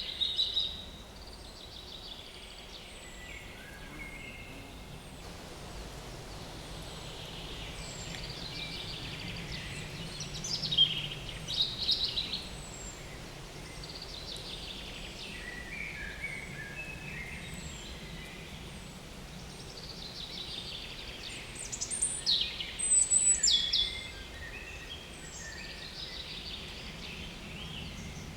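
Small woodland songbirds singing: three loud song phrases of quick descending notes, each about two seconds long and roughly ten seconds apart, over a thin high call repeated about once a second. A steady low buzz, typical of flies near the microphone, runs underneath.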